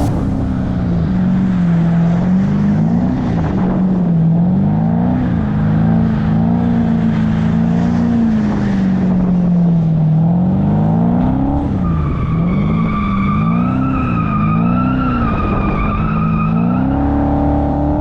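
Car engine driven hard, its revs repeatedly rising and falling. For several seconds in the second half, tyres squeal over the engine.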